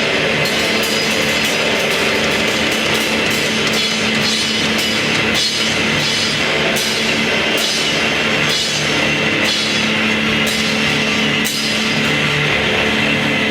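Rock band playing loudly: a dense, distorted wall of sound over a drum kit, with regular cymbal crashes.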